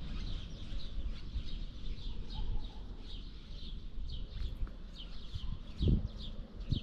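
Small birds chirping: short, high, falling chirps repeated two or three times a second, over a low rumble, with a low thump near the end.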